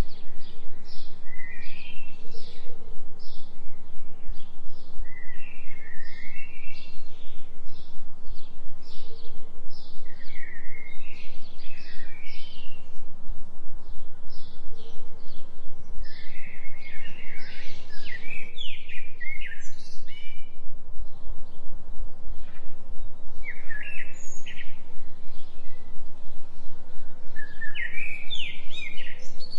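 Forest birds singing and chirping in short repeated phrases, over a loud low hum that pulses about three times a second: a 3 Hz delta binaural-beat tone.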